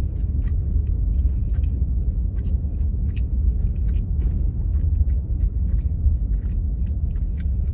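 A person chewing a mouthful of crispy-rice sushi, with soft scattered mouth clicks, over a steady low rumble in a car's cabin.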